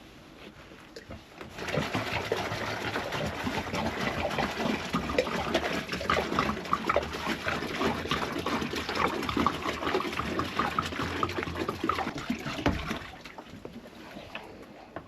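Water being poured into the goats' water bucket, splashing and bubbling for about eleven seconds, starting a second and a half in and stopping near the end.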